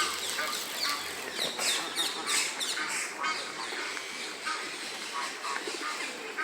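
Ducks quacking among a chorus of other birds calling in an aviary, with many short calls overlapping.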